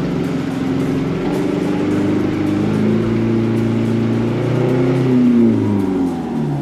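Off-road 4x4's engine working under load: revs climb over a couple of seconds and then drop away about five and a half seconds in.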